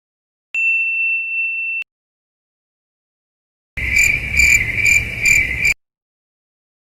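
A single steady high-pitched electronic beep lasting just over a second, then after a pause about two seconds of crickets chirping in even pulses, the stock cricket sound effect.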